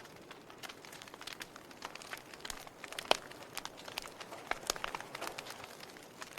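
Burning log fire crackling: irregular sharp pops and snaps over a soft, steady hiss, with one louder pop about three seconds in.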